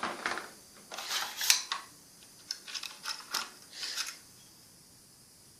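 Handling noise from the air nailer and its nails: scraping and rubbing with several sharp clicks and knocks, the sharpest about a second and a half in. It dies away after about four seconds.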